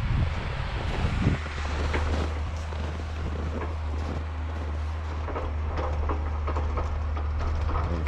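Tractor engine running steadily with a low hum that settles in about a second in. Wind rumbles on the microphone at the start.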